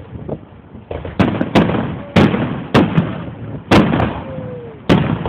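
Fireworks going off: six sharp bangs of bursting shells in irregular succession, each ringing on briefly, over a steady hiss.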